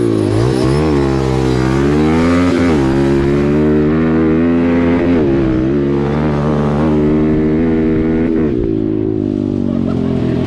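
Small dirt bike engine revving hard under acceleration, its pitch climbing and dropping back at gear changes, then falling to a lower, steadier note about eight and a half seconds in as the throttle eases off.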